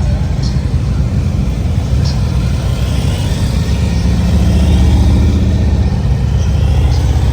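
Motorcycle engine running close by, a deep steady rumble that swells a little around the middle.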